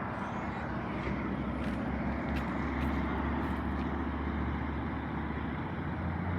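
A road vehicle's engine running close by, a steady low hum that eases off near the end.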